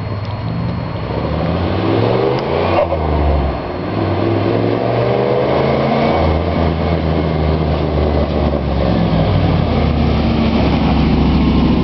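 Range Rover Classic's turbocharged 3.9-litre V8 pulling under acceleration: the revs climb, dip briefly at a gear change about three and a half seconds in, climb again, then settle to steady running.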